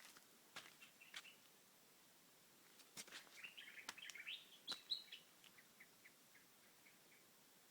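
Small birds chirping faintly: a few sharp chirps, then a quick twittering run about three seconds in that trails off into a string of short, fading notes.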